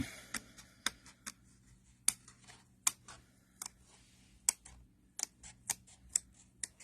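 Small fussy-cutting scissors snipping card stock in short, sharp, irregular snips, a few a second and quicker near the end.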